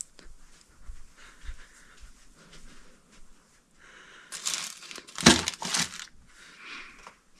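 Rustling and crinkling from hands handling parts, louder in the middle stretch, with a few sharp knocks about five seconds in.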